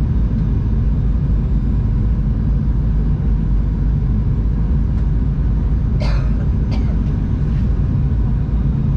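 Boeing 737-800 cabin noise: a steady low rumble of the jet engines and airflow, heard from inside the cabin. Two short sharp clicks or rattles sound about six seconds in.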